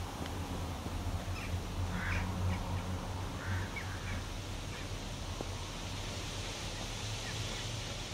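Birds calling several times in short, separate calls over a steady low hum of outdoor background noise.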